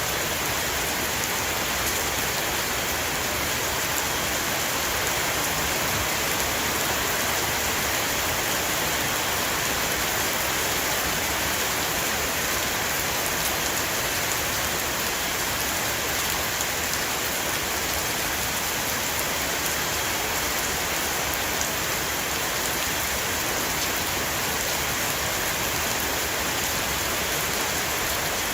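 Heavy rain shower falling steadily on a roof, a dense even hiss with scattered drop ticks.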